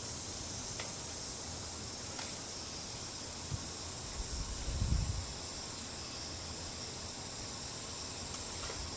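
Steady high-pitched hiss of outdoor ambience, with one dull low thump about five seconds in.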